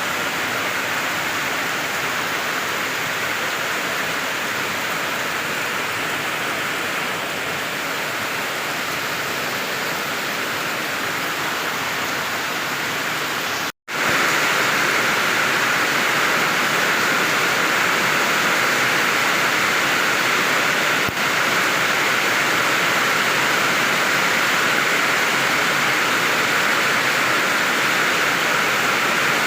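Steady rain falling, an even rushing hiss. About halfway through it cuts out for a split second, then returns slightly louder and brighter.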